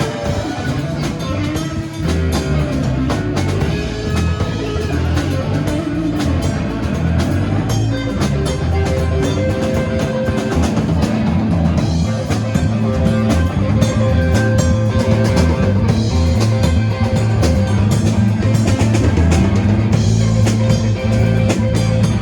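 Live rock and roll band playing an instrumental stretch: electric guitar over a walking bass line and a drum kit, with no singing.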